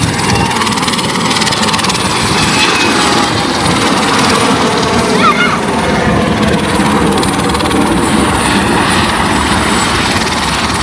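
Tour helicopter running close by: a loud, steady rush of rotor and engine noise.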